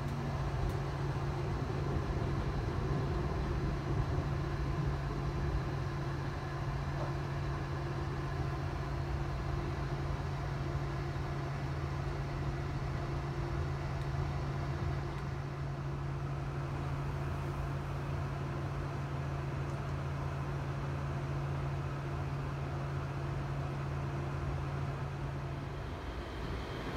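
Steady running noise of a sleeping car rolling along the track, heard from inside the cabin, with a constant low hum that stops shortly before the end.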